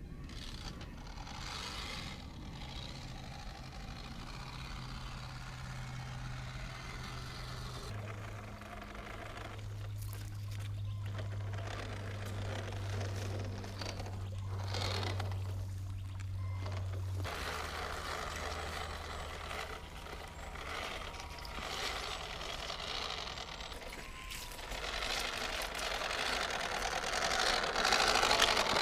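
A Tamiya Hilux 4x4 RC pick-up truck being driven over rough ground: its electric motor and gearbox running with tyre and ground noise that swells and fades, loudest near the end. A steady low hum underneath steps down in pitch twice, about 8 and 17 seconds in.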